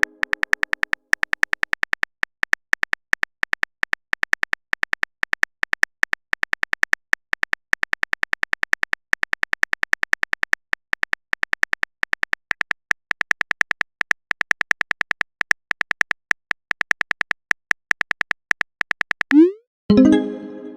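Rapid, uneven run of keyboard typing clicks from a texting-app sound effect, each tick with a bright pitched ring. Near the end comes a short rising swoop and a pop: the message-send sound.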